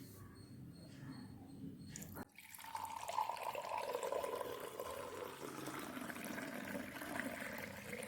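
Blended carrot milkshake being poured through a strainer: a steady run of pouring and trickling liquid that starts suddenly about two seconds in and lasts to the end.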